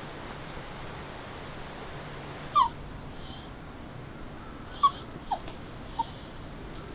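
Dog whimpering in four short, high whines, some sliding down in pitch.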